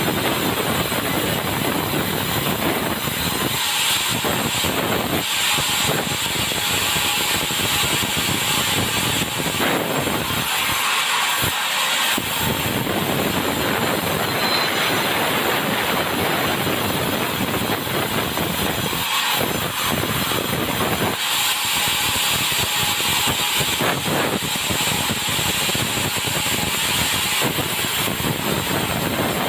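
Sawmill blade sawing through a hardwood log, a steady loud noise of the saw and its motor whose pitch and grain shift several times as the cut goes on.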